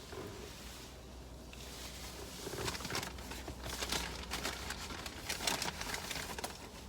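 Paper food wrappers and bag rustling and crinkling in short bursts as the meal is handled, over a low steady hum that fades about halfway through.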